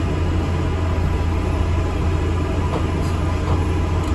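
Steady low rumble of an ADL Enviro 400 MMC double-decker bus under way, engine and road noise heard from inside the passenger cabin.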